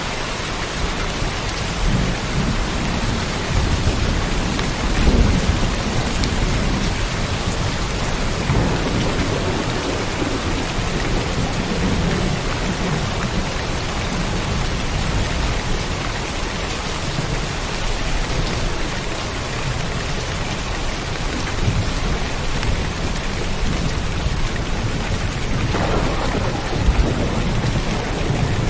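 Steady rain falling, with low rumbles of thunder swelling and fading several times. The strongest rumbles come about five seconds in and near the end.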